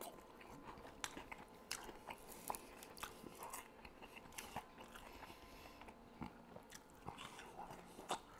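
Close-miked eating of chicken wings: faint biting and chewing with irregular short clicks of mouth and teeth.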